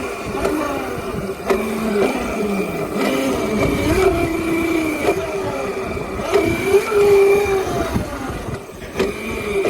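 Stock Razor MX350 electric dirt bike's 350-watt motor and chain drive whining, the pitch rising and falling several times as the throttle is worked for a wheelie, with a steady high whine and a rough rumble of tyres and wind underneath.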